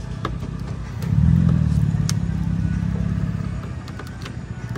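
A motor vehicle's engine running with a low, steady rumble that swells louder about a second in and eases off later. A few sharp clicks sit on top as plastic trim clips are worked loose from the bumper.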